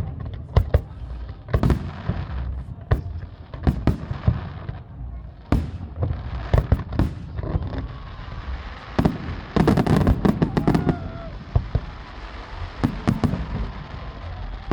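Fireworks display: aerial shell bursts banging in quick, irregular succession, dozens of sharp reports with crackle between them. The bursts come thickest about ten seconds in.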